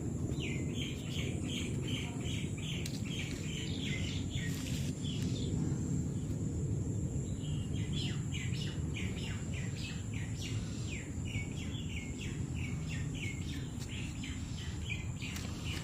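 A bird chirping in quick repeated notes, about three a second, in two runs with a pause of a couple of seconds in the middle. A steady low rumble runs underneath.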